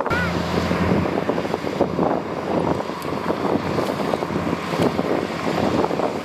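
Heavy diesel engine of a dump truck or bulldozer running steadily, with a rough crackling noise over it.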